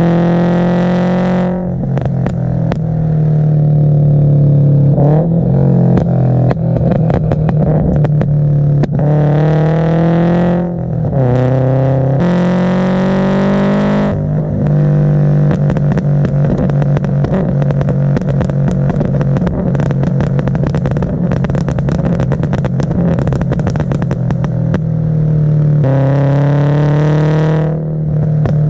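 Scion FR-S's 2.0-litre flat-four engine pulling up through the revs several times, its pitch climbing, with a rapid string of backfire pops and crackles when off the throttle from its backfire tune.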